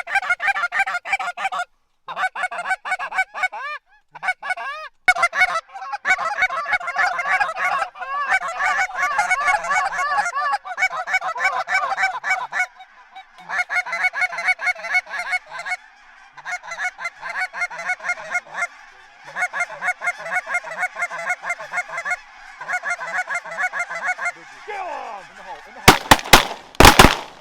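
Geese honking, many rapid overlapping honks with a few short breaks. Near the end, several shotgun blasts go off in quick succession.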